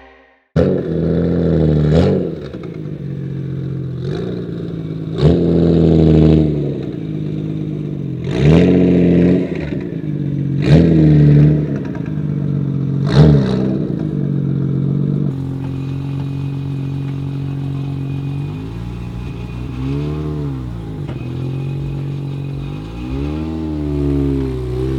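Car engine and exhaust idling and revved sharply about six times in quick blips, then settling into a steady idle with a couple of slower rises and falls in engine speed near the end.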